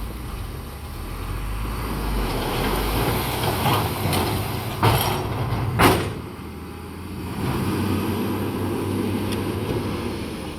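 Heavy diesel earthmoving machinery running under load with a rough, grinding rumble, and two loud knocks about a second apart near the middle.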